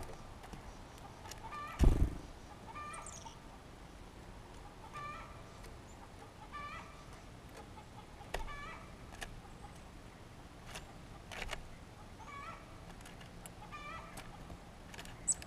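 A bird repeats a short call about once a second. A loud thump comes about two seconds in.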